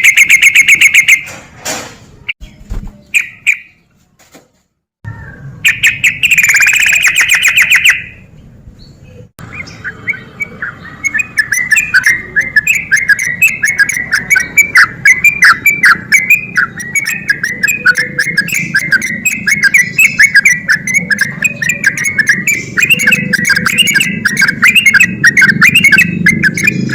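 Sooty-headed bulbul calling: short bouts of bright chirping notes broken by brief silences, then from about ten seconds in a long, fast run of chattering notes without a break.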